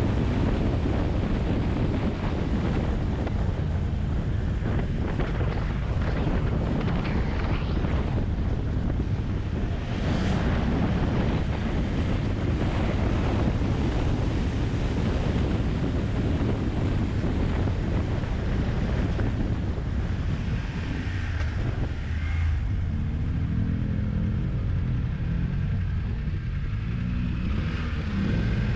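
Wind rushing over the microphone of a motorcycle on the move, with its engine running underneath. About two-thirds of the way through the wind eases and the engine note comes through more clearly.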